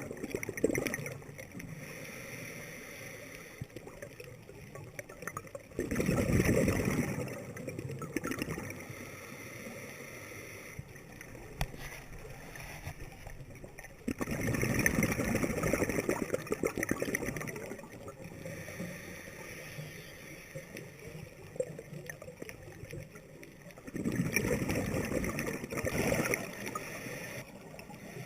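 A scuba diver's regulator breathing heard underwater: exhaled air bubbles out in four bubbling bursts of two to three seconds each, roughly every eight to nine seconds, with a faint steady hiss between breaths.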